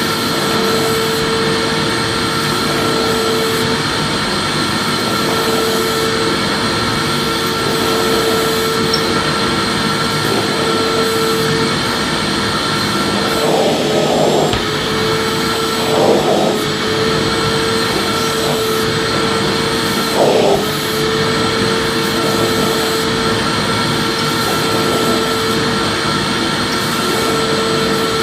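Vacuum cleaner running continuously, a dense rushing noise with a steady whine. The whine and level waver briefly a few times around the middle.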